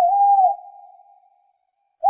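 A clear, whistle-like single-pitched animal call, held for about half a second and then fading away.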